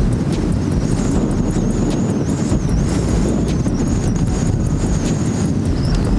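Heavy wind buffeting the microphone over a Honda Metropolitan 49cc four-stroke scooter engine held at full throttle, with a high whine that wavers in pitch.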